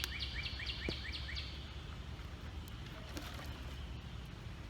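A bird calling a rapid series of short, high chirps, about five a second, that stops about a second and a half in, over a steady low outdoor rumble.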